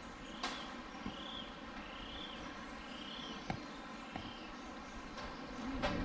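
A bird calling four times in a row, each a short note that rises and falls, about one every 0.8 seconds, over a steady rainforest hiss with a few light clicks.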